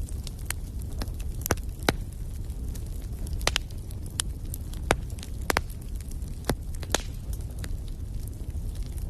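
Wood fire burning in a fireplace: a steady low rumble with irregular crackles and sharp pops, several louder snaps spread through.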